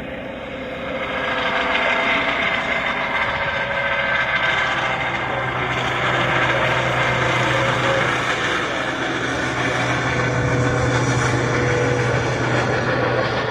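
Helicopter running through its take-off, the engine and rotor noise growing louder about a second in and then holding steady with a low hum.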